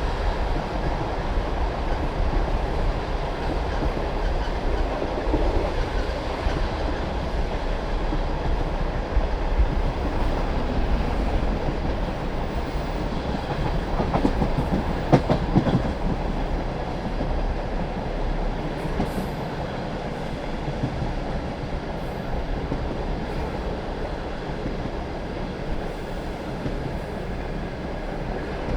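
Passenger train carriage running along the track: a steady rumble of wheels on rail with clickety-clack over the rail joints. A brief cluster of louder knocks comes about halfway through.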